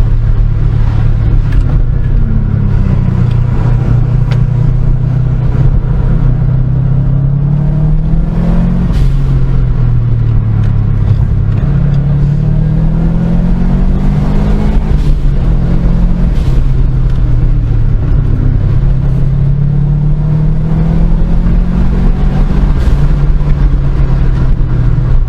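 Car engine running under load on a winding road, its pitch climbing as it accelerates and dropping back as it lifts off, several times over.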